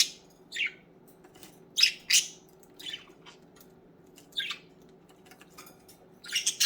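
Budgerigars giving short, scratchy chirps and squawks, one every half second to a second, with a louder burst of calls near the end.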